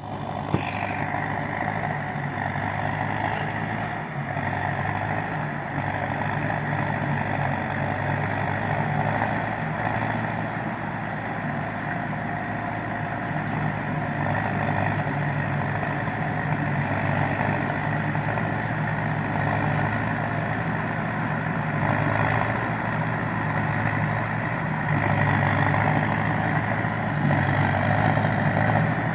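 TDT-55 crawler skidder's diesel engine running steadily under work, its level swelling and easing a little over time. A short click about half a second in.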